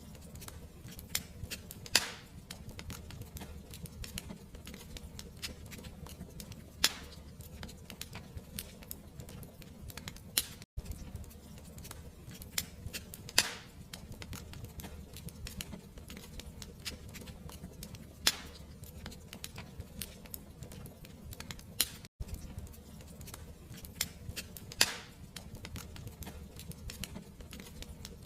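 Fireplace fire crackling: a steady low rumble with a constant patter of small crackles and a sharper pop every five or six seconds. The sound drops out for an instant twice, where the recording loops.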